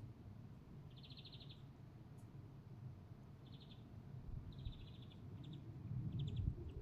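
A small songbird giving short, rapid, high trills, each about half a second long, a few seconds apart, over a low steady outdoor rumble.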